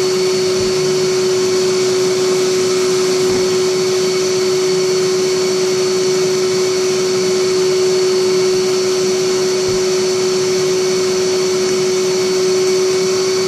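An old Hyla water-filter vacuum cleaner running steadily: a constant motor hum with one strong steady tone over the rush of air.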